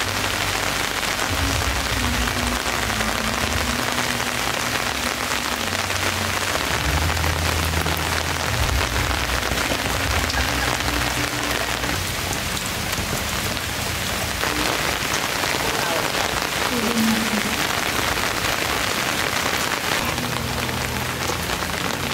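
Steady heavy rain falling on foliage, thatch and standing floodwater, an even hiss with no letup.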